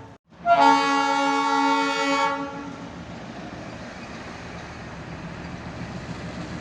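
Diesel locomotive horn sounding loudly for about two seconds, a chord of several tones, then cutting off and leaving the locomotive's engine running with a steady low rumble.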